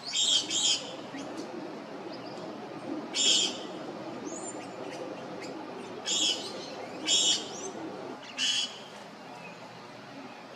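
Wild birds calling: short harsh notes, often in quick pairs, every one to three seconds, with fainter thin whistled chirps from other birds over a steady background hiss.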